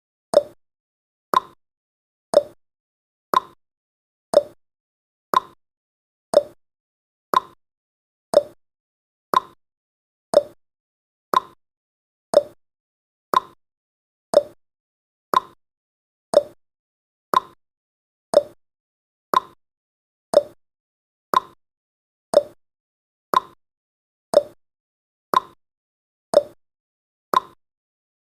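Countdown timer's ticking sound effect, one short sharp tick each second, marking off the seconds at an even pace.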